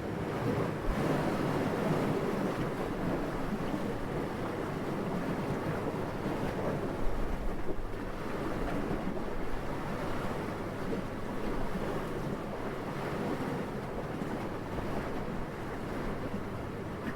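Steady wind rushing, swelling in gusts, with a brief stronger gust about seven seconds in.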